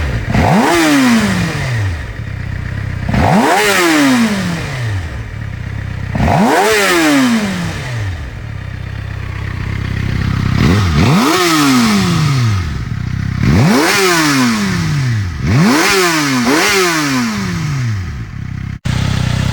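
2007 Suzuki motorcycle engine being free-revved while standing, about seven sharp throttle blips that each climb quickly and then fall slowly back toward idle. The sound cuts out for a moment near the end.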